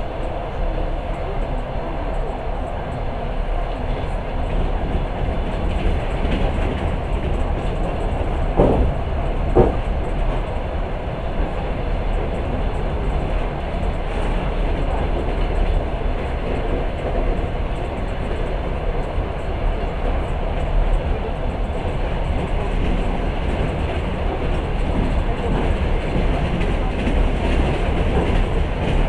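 Long-distance passenger train running along the track, heard from inside the carriage: a steady rumble with the clack of wheels over rail joints. About a third of the way in come two louder knocks about a second apart.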